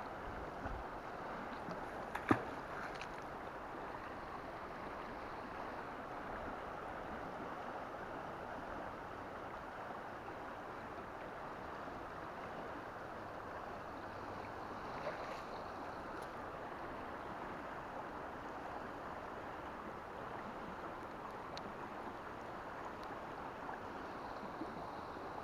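Steady rush of flowing river water, with one brief knock about two seconds in.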